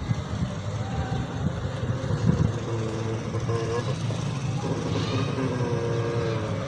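Dogs growling at each other in a continuous low rumble, with higher-pitched drawn-out notes now and then in the second half.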